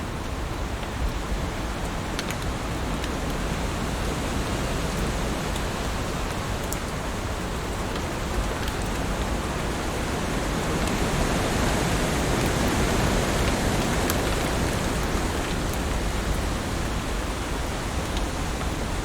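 Heavy rain falling steadily, a dense even hiss with occasional sharp drop ticks, swelling a little louder about halfway through.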